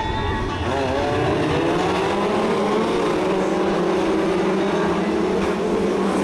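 BriSCA F2 stock car engines racing, several cars at once, the pitch climbing from about half a second in as they accelerate, then holding steady.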